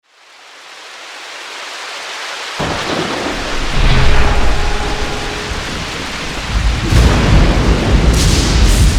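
Thunderstorm: a steady rain hiss fades in, joined about two and a half seconds in by heavy low thunder rumbling that swells around four seconds and again from about seven seconds on.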